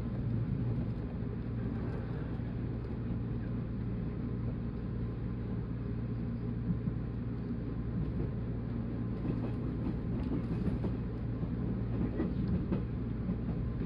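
Running noise of a JR 185 series electric multiple unit heard from on board: a steady rumble of wheels on rail with a constant low motor hum.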